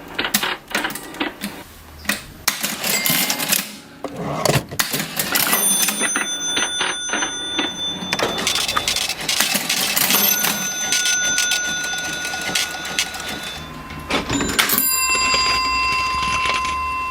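Vintage mechanical cash register clattering: rapid clacks of keys and levers, with the bell ringing three times, each ring hanging on for a few seconds.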